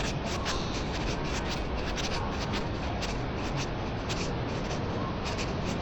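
Steady city street background noise with a low rumble, overlaid by irregular scratchy rustles and scuffs several times a second.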